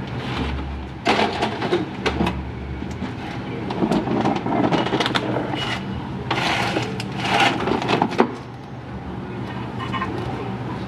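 Scraping, rattling handling noises in a workshop, in irregular bursts over several seconds, over a steady low hum.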